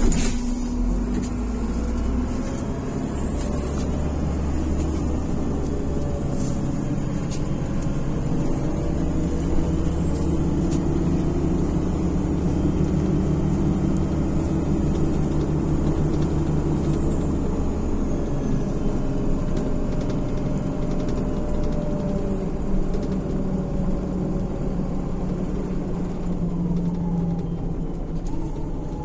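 MAZ-103 city bus heard from inside the cabin as it pulls away from a stop and drives on, its engine running under load with a steady drone. The deep rumble eases off about 18 seconds in.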